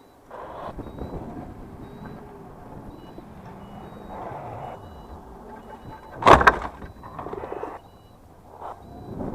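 Reverse-warning beeper sounding short repeated beeps at two pitches, over a steady background of machine noise. About six seconds in there is a loud, brief clattering thump.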